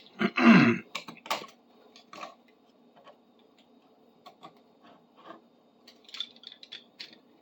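A knife scraping and chipping hardened PL 400 construction adhesive off a metal bar clamp, the glue coming off in chunks. There is one loud scrape about half a second in, then scattered light scrapes and clicks.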